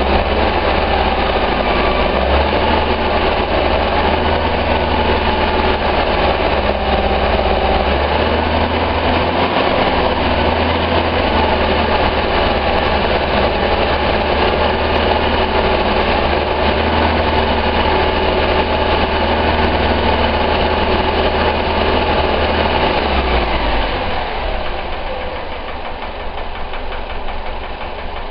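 1973 Alfa Romeo Giulia Super 1.3's twin-cam four-cylinder engine running steadily at raised revs, then dropping back toward idle about 24 seconds in. The engine is held up in revs to check the charging voltage from a new 12 V voltage regulator, with the headlights off.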